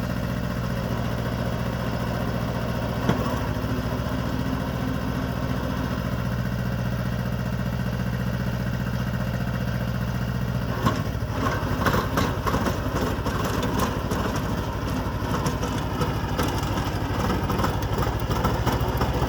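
Small compact tractor engine running steadily, turning rougher with rattling and clatter from about eleven seconds in.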